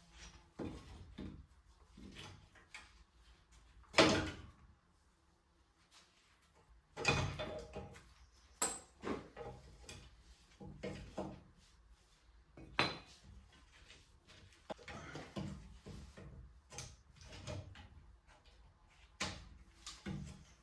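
Scattered metallic clinks, clanks and knocks of hand tools and old drum-brake parts (shoes, springs, hardware) being handled while the rear brake assembly is taken apart, with a sharp knock about four seconds in and a run of clanks from about seven seconds.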